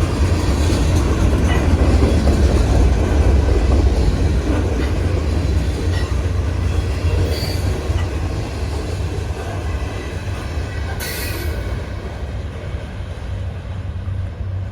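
Freight train rolling past close by: a heavy low rumble of wheels on rail, with faint short wheel squeals. The rumble eases toward the end, and there is a brief hiss about 11 seconds in.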